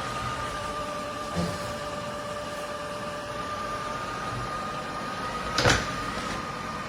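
eufy Omni C20 robot vacuum running, a steady motor hum with a high, even whine. A small knock about a second and a half in and a louder, sharp knock near the end.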